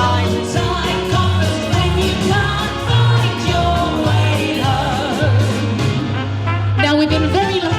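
Close-harmony vocal trio singing a wartime song with instrumental backing, over a steady bass line.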